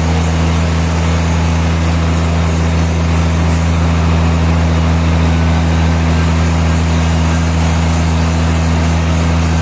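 Sawmill machinery running with a steady low drone under an even hiss, with no change in pitch or load.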